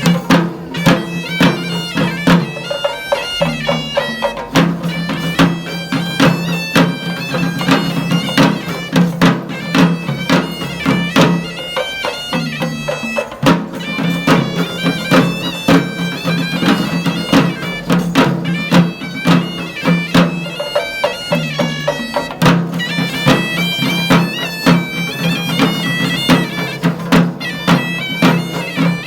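Sri Lankan perahera music: a shrill reed pipe plays a stepping melody over a steady low drone, with frequent drum strikes.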